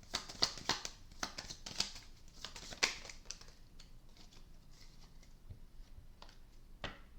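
Tarot cards being shuffled and handled: a quick run of soft snaps and swishes for about three and a half seconds, then a few scattered clicks.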